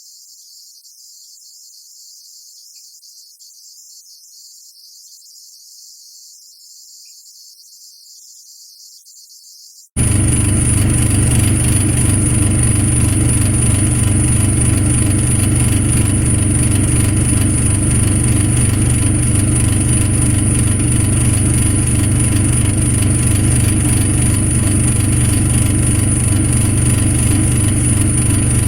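Crickets or other insects chirping for about ten seconds, then an abrupt cut to a truck engine running steadily. The engine is a deep, even rumble with a thin, steady high whine above it.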